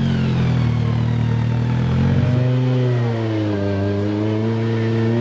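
Off-road competition vehicle's engine running and revving, its pitch shifting a little over two seconds in, then sagging and climbing back.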